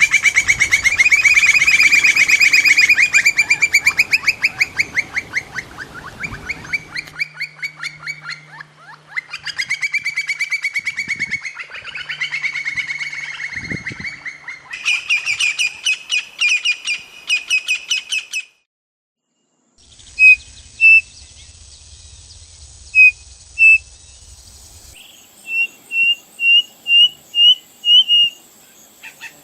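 Birdsong: a bird's fast, chattering trills of rapidly repeated notes, in phrases broken by short pauses. These stop about 18 seconds in, and after a brief silence a different bird gives short, sharp whistled notes, ending in a quick run of about seven.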